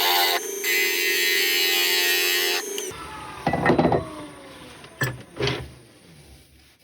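Wood lathe running with a flat carbide tool cutting across a laburnum blank, a steady motor hum under a hissing cut, with the tool lifted off briefly near the start. About three seconds in the cutting and the motor stop and the whine falls as the lathe spins down, followed by a few knocks.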